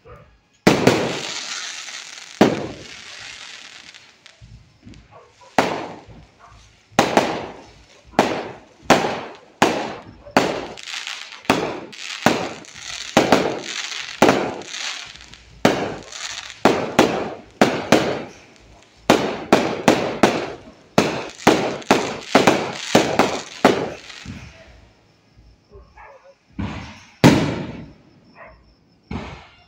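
Aerial fireworks going off in rapid succession: sharp bangs of shells bursting, about two a second at their busiest, some followed by crackling. Near the start a burst crackles for a couple of seconds, and toward the end the bangs thin out to a few scattered ones.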